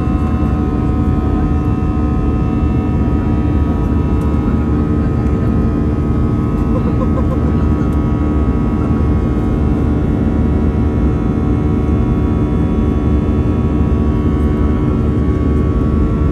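Steady cabin noise of an Airbus A319 jet airliner in flight after takeoff: the jet engines' low rumble and the rush of air, with several steady engine tones held throughout.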